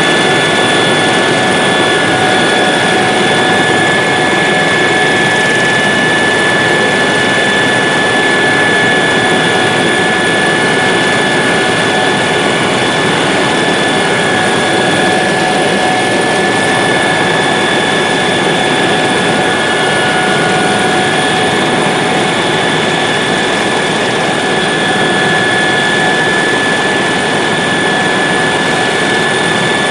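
Helicopter in flight, heard from on board: a loud, steady din of engine and rotor with several high whining tones held level throughout.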